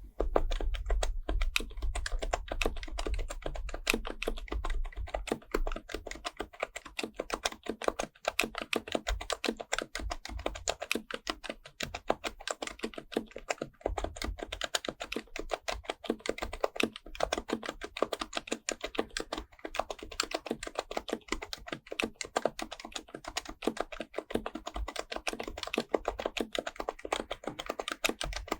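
Steady, fast typing on an HHKB Professional Type-S keyboard, its silenced Topre capacitive switches giving a quick run of soft clicks and thocks.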